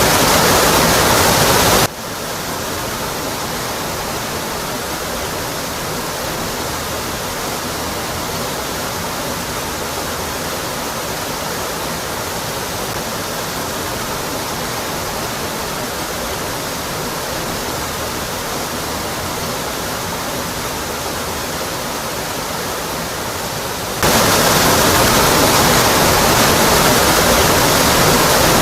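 Steady rush of a waterfall crashing onto rock. About two seconds in it drops abruptly to a quieter, duller rush, and about four seconds before the end it jumps back to the fuller sound.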